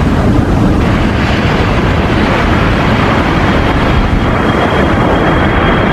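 Airplane engine sound, a loud steady rushing roar like a passing jet.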